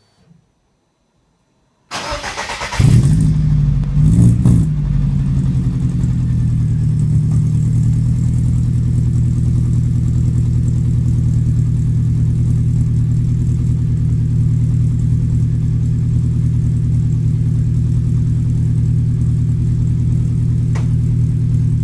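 Lada Priora's inline-four started through a full Stinger exhaust system: the starter cranks briefly about two seconds in, the engine catches with a short rev flare, then settles into a steady idle. The exhaust is tuned for a Subaru-style note.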